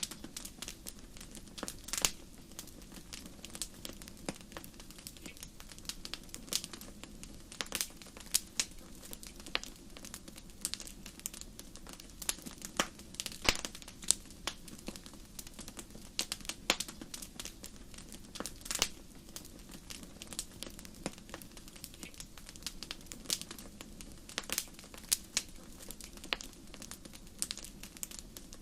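Wood fire in a fireplace crackling and popping: irregular sharp pops and snaps over a low steady rushing of the flames.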